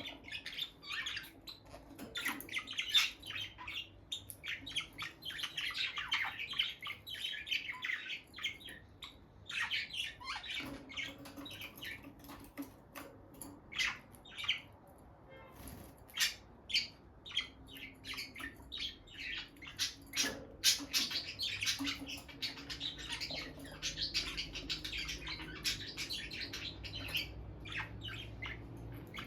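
Pair of peach-faced lovebirds chirping and squawking, a near-continuous chatter of short, shrill calls.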